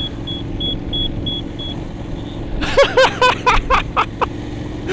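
Adventure motorcycle engine running steadily at road speed. A row of short, high, evenly spaced beeps sounds in the first two seconds. About three seconds in comes a quick burst of laughter.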